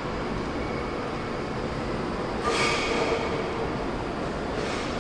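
Railway station platform ambience: the steady rumble of rail traffic, with a brief high, several-toned sound about halfway through.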